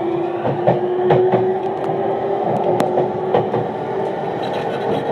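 E231-1000 series train running, heard from inside a motor car. The Hitachi IGBT-VVVF inverter and traction motors give a steady whine that rises slowly in pitch as the train gains speed. Wheels click now and then over rail joints.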